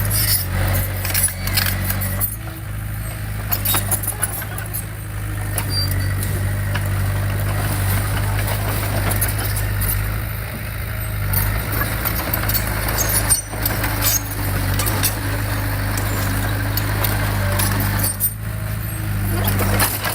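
Diesel engine of heavy earthmoving machinery running steadily, with frequent short metallic clicks and clanks over it.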